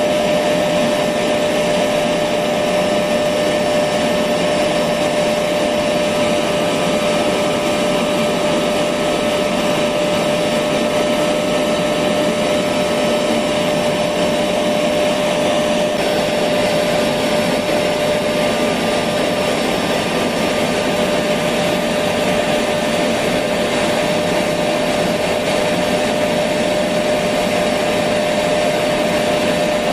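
Electric vacuum cleaner running steadily: an even rushing of air with a constant motor whine, unchanging throughout.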